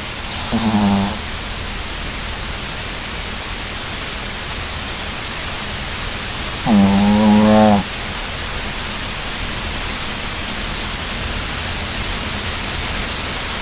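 Sleeping dog snoring: two pitched snores, a short one near the start and a longer one about halfway through, over a steady hiss.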